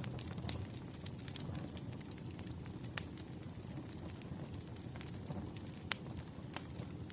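Wood fire burning, with a steady low rush of flames and frequent sharp crackles and pops from the burning logs, a few louder pops standing out.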